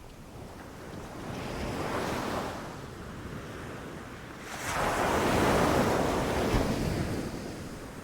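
Ocean surf breaking on a beach: a smaller wave swells and breaks about two seconds in, then a larger, louder wave crashes about five seconds in and washes back out.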